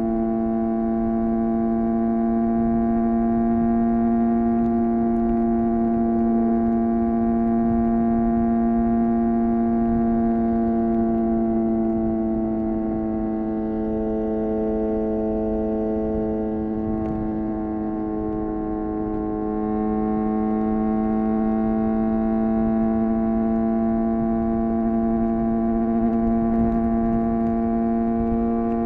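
Suzuki GSX-R 750's inline-four engine and exhaust running at steady revs under way, a smooth even drone. The pitch eases down slightly about halfway through and climbs back a few seconds later.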